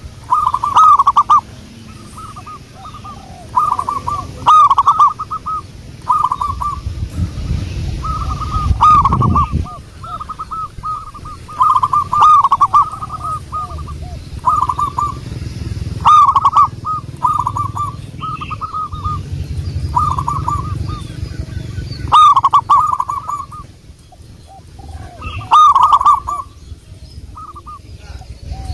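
Zebra dove (perkutut) cooing: short phrases of quick, rippling coo notes repeated every second or two. A low rumble sits under some of the phrases.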